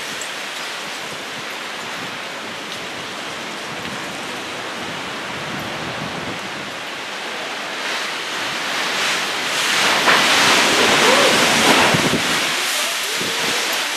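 Summer storm: a steady rush of wind and rain, with a gust swelling louder about ten seconds in and easing off near the end.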